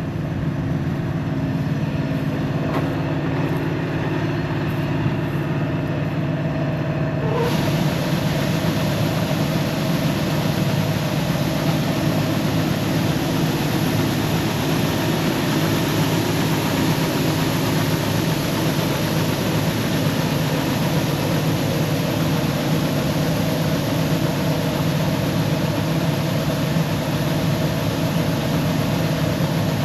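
Combine harvester's diesel engine running steadily, heard close up. About seven seconds in, a broad rushing noise suddenly joins it and keeps going alongside the engine.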